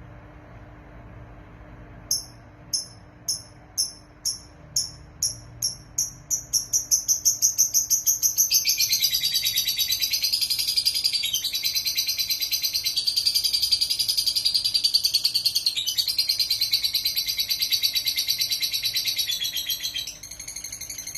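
Lovebird calling: single sharp, high chirps that start about two seconds in and come quicker and quicker, then run together into a long, loud, continuous rapid chattering song that breaks off near the end.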